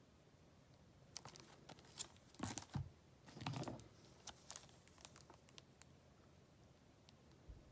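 Faint handling of a Blu-ray set and its packaging: scattered small plastic clicks and crinkles, busiest between about two and four seconds in.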